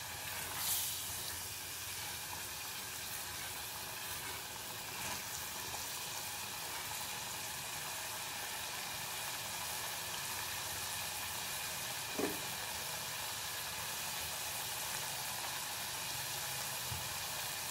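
Chicken pieces frying in a green masala with ghee in a clay pot: a steady, even sizzle, stirred with a silicone spatula, with a few soft knocks of the spatula against the pot.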